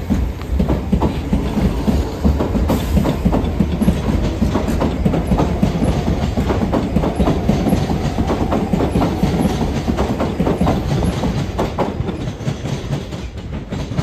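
Southeastern Class 395 Javelin electric multiple unit running past close by, its wheels clicking rapidly over rail joints. The sound eases off near the end as the train pulls away.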